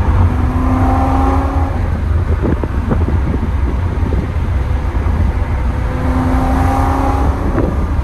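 BMW E90 M3's V8 with a custom exhaust, heard from inside the cabin under steady driving: a deep, continuous rumble. A steady drone tone rises out of it twice, briefly near the start and again about six seconds in.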